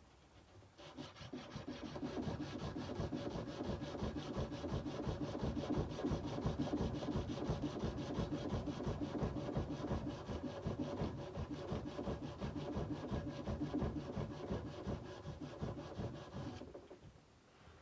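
Sandpaper rubbed by hand along a steel kukri blade in rapid back-and-forth strokes. The strokes start about a second in and stop shortly before the end.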